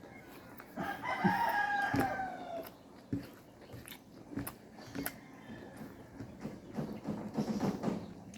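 A rooster crows once, about a second in, a drawn-out call that falls slightly in pitch at its end. Short clicks and knocks of eating are scattered around it.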